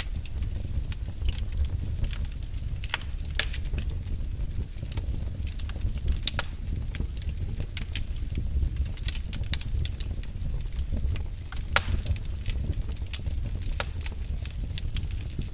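Wood fire burning in a fireplace: a steady low rumble with irregular sharp crackles and pops, a few of them louder.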